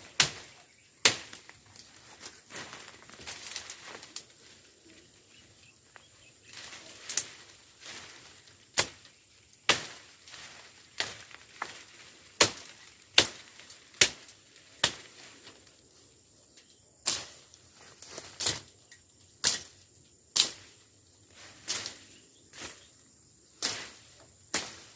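A long series of short, sharp strikes or snaps, roughly one a second and sometimes in quick pairs, with quiet gaps between and no engine running.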